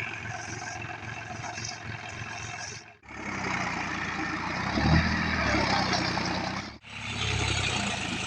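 Tractor engine running while the tractor is stuck in deep paddy-field mud, heard in three short pieces with abrupt cuts about three and seven seconds in.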